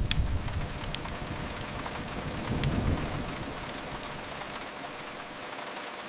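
Steady hiss of rain on a window, with a few sharp crackles and pops from a fireplace. A low rumble fades away in the first second and swells briefly again about three seconds in.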